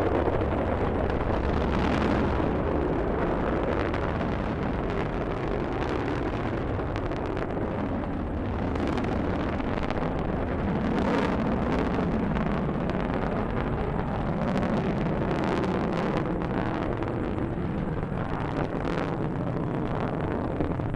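Delta II rocket climbing after liftoff, its engines and boosters giving a steady, dense rumble with scattered crackles.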